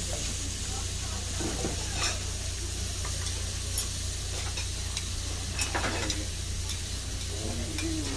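Pork sizzling on a hot iron griddle: a steady frying hiss, with a few sharp clicks now and then.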